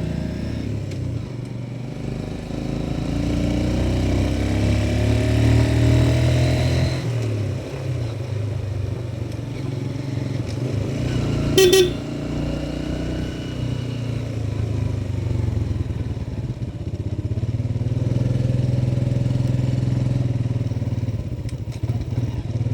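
Motorcycle engine running on the road, its pitch rising as it revs up in the first few seconds, then dropping and settling. A short horn beep sounds about halfway through and is the loudest moment.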